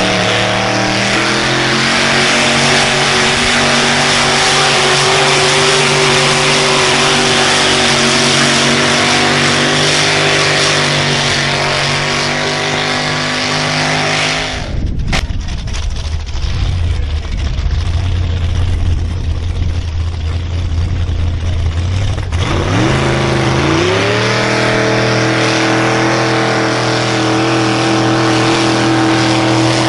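Engine of a pulling vehicle running at high, steady revs under load. About halfway through it drops away to a low rumble. Some seven seconds later it revs back up and holds steady again.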